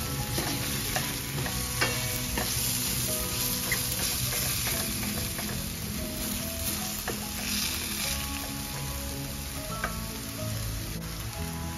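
Ground pork, tomatoes and onions sizzling in a stainless steel frying pan while being stirred with a wooden spatula, with scattered light clicks of the spatula against the pan.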